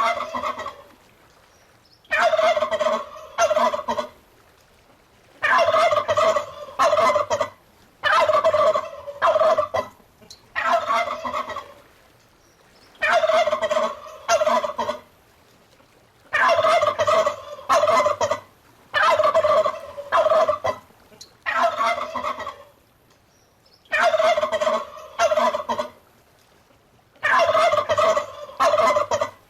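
Domestic turkey gobbling: a burst of gobbles about every two seconds, each a rapid rattling call lasting one to two seconds.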